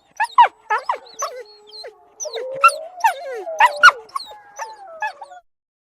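A dog whining in long sliding whines, with short high yips and yelps over them. It cuts off abruptly near the end.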